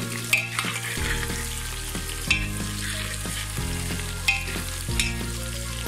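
Sliced onions, cinnamon, cardamom and bay leaves sizzling in hot oil in a metal pot while a spatula stirs them, with a few sharp scrapes of the spatula against the pot.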